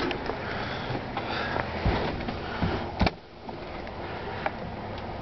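Rustling and handling noise with scattered clicks and a few knocks, the loudest a sharp knock about three seconds in, after which the background falls quieter.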